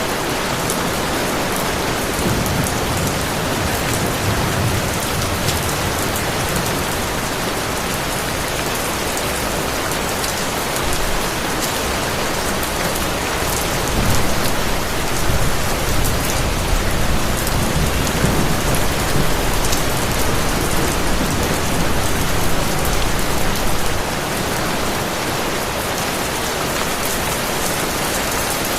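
Heavy rain falling steadily, with a low rumble of distant thunder swelling about halfway through and lasting some ten seconds.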